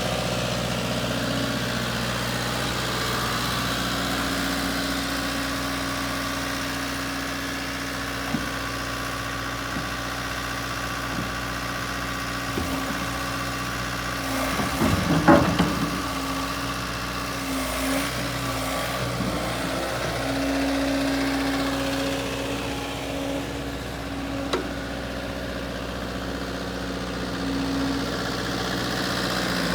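JCB 85Z-1 midi excavator's diesel engine running steadily at idle, with a short cluster of clanks and knocks about halfway through.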